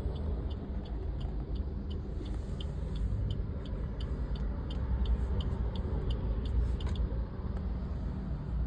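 A car running, a steady low rumble, with a light regular ticking about three times a second that stops near the end.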